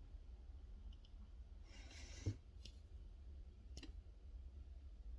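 Faint clicks and a brief scrape from fingers handling a small die-cast toy car, trying whether its hood opens; the sharpest click comes about two seconds in, with two more single clicks after it.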